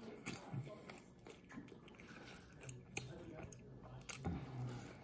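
A person chewing crispy battered teriyaki chicken close to the microphone, with soft, irregular mouth noises and a few faint sharp clicks.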